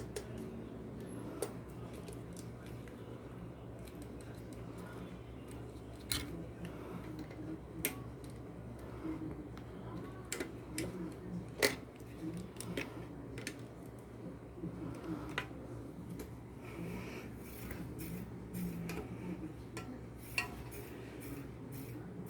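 Metal tools and brake parts being handled while a bicycle's hydraulic brake is adjusted: about half a dozen sharp metallic clicks and taps, spaced irregularly, with softer fiddling sounds over a low steady hum.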